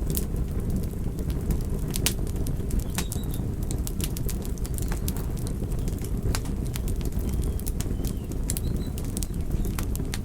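Wood fire crackling: a steady low rumble of burning with sharp snaps and pops scattered irregularly throughout, the sharpest just after the start and about two seconds in.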